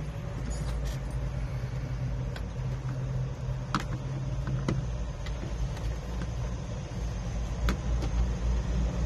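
Steady low hum of an idling truck heard inside the cab, with a few sharp clicks and taps as the cabin air filter and its panel are handled.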